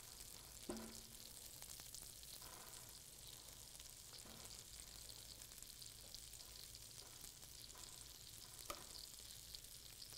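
Chopped tomatoes and a seared chicken quarter sizzling faintly in a hot pan while a silicone spatula stirs the tomatoes. There are two light knocks of the spatula against the pan, about a second in and near the end.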